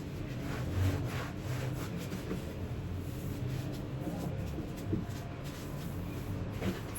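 Brush scrubbing a surface in irregular short strokes, over a low steady rumble.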